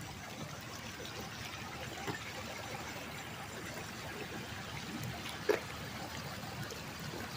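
River water trickling and flowing steadily, with a few faint clicks and one sharper click about five and a half seconds in.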